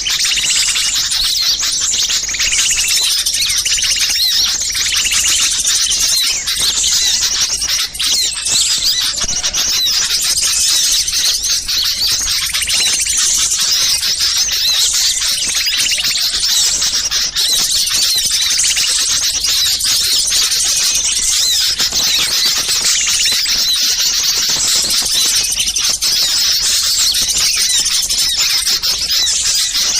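Dense chorus of many small songbirds chattering and calling at once in high-pitched chirps and trills, with no let-up: an agitated, noisy ('ribut') small-bird recording used as a lure to draw in wild birds.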